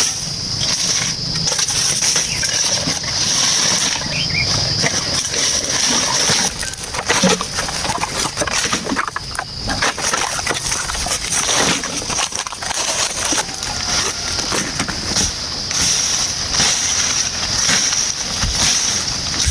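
A high, steady insect drone from the rainforest, such as cicadas, broken off briefly now and then, over scattered knocks and crackles.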